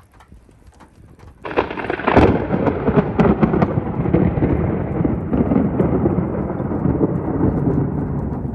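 A thunderclap breaks in about a second and a half in: a sharp crackle, then a long rolling rumble that slowly fades, with rain falling.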